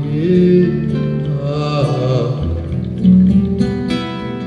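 Live Afro-Brazilian song with acoustic guitar plucking and accompaniment between sung lines, a voice holding notes.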